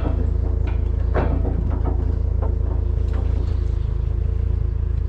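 Pickup truck driving: a steady, loud low rumble of engine and road.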